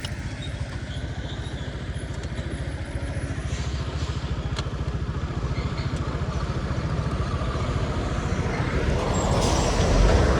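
Motorcycle engine running with a steady low pulsing beat, gradually growing louder, with a rush of wind-like noise joining near the end.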